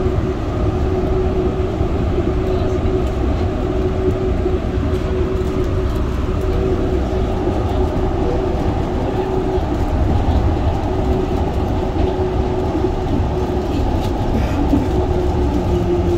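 Yurikamome rubber-tyred automated train running steadily: a continuous low rumble under a steady whine that shifts slightly lower near the end.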